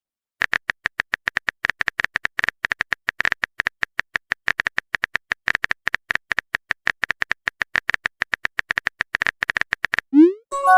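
Phone-keyboard typing sound effect: a long run of quick, same-pitched key clicks, about eight to ten a second, that stops shortly before the end.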